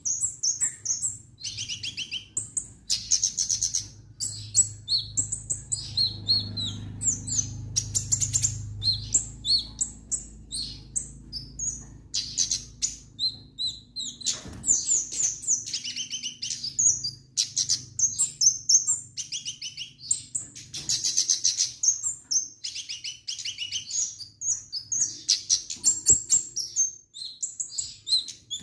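A kemade songbird singing continuously in full voice: rapid runs of short, high chirps and trills with barely a pause.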